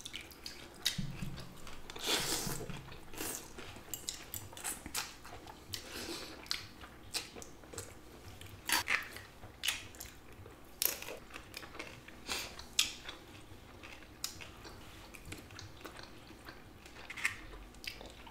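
Close-up eating sounds of people eating noodle soup and gyoza: chewing and mouth noises with scattered sharp clicks and a few short noisy bursts.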